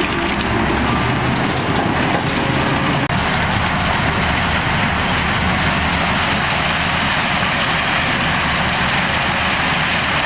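Heavy diesel engine of earthmoving machinery running steadily, with a momentary break in the sound about three seconds in.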